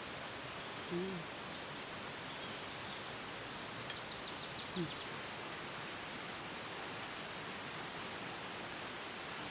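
Steady outdoor hiss, with two short low voice-like sounds, one about a second in and one about five seconds in, and a quick run of faint high ticks between them.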